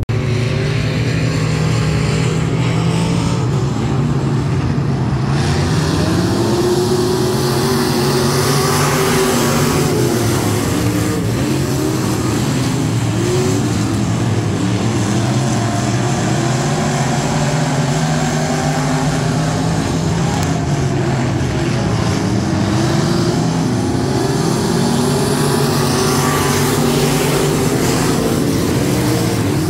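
Dirt-track race car engines running laps, their pitch rising and falling every few seconds as they accelerate and back off through the turns.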